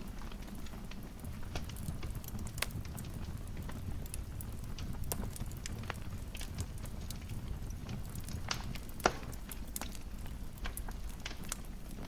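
Wood fire crackling in a fireplace: scattered sharp pops and snaps over a low steady rumble, with one louder pop about nine seconds in.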